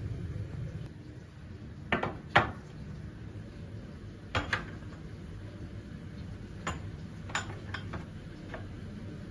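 Scattered sharp clinks and knocks of hard household objects being handled and set down, about nine in all and the loudest a couple of seconds in, over a steady low hum.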